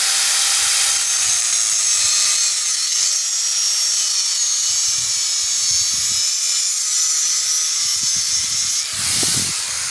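Handheld power tool running continuously with a harsh, high-pitched hiss. About nine seconds in there is a brief lower rumble, and the sound then eases off.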